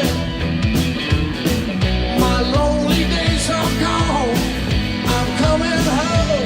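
Live blues-rock band playing: electric guitar lines that bend and waver over bass guitar and drums keeping a steady beat.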